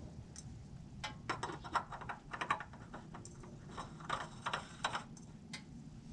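Quick, irregular clicking and ticking, a few light clicks at a time, as a new spin-on oil filter is threaded onto a Subaru STI engine by hand.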